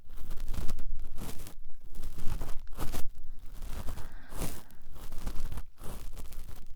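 Cotton swab rubbing and scraping close against the ear of the microphone in irregular strokes, a scratchy, rustling simulated ear cleaning.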